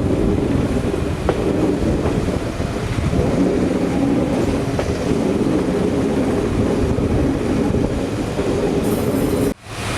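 Passenger train running along the track: a steady rumble of wheels on rails with a few faint clicks, broken by a brief sudden dropout near the end.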